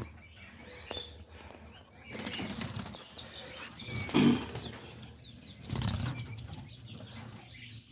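Small birds' wings flapping in short bouts, the loudest about four and six seconds in, over faint bird chirps.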